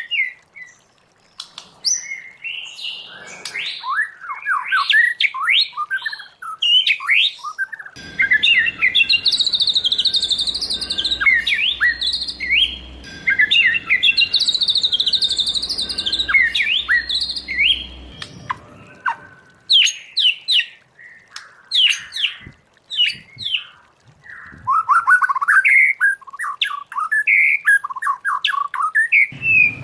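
White-rumped shama singing a long, varied song of rapid whistled notes and quick sweeping, chattering phrases. A low background rumble lies under the song for about ten seconds in the middle.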